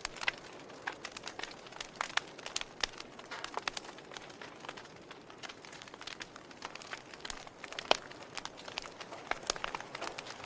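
Fire crackling: irregular sharp pops and snaps over a soft steady hiss, with one louder pop about eight seconds in.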